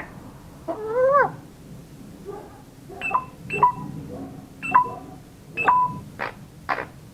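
African grey parrot vocalizing: an arching whistle-like call, then a run of short beep-like notes, then two harsh squawks near the end.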